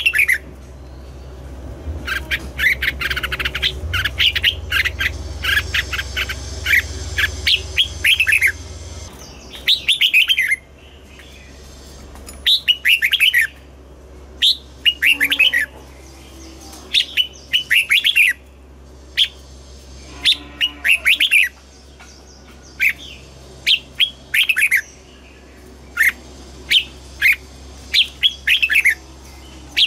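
Red-whiskered bulbul singing short, loud whistled phrases, one every second or two. A low hum runs under the song for the first third and then stops.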